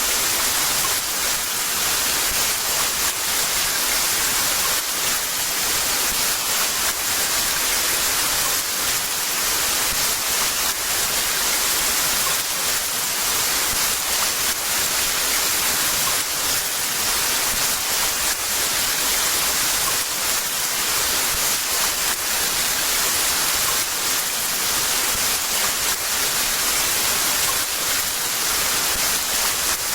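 Heavy rain falling in a steady, dense hiss, with no thunder or other distinct events.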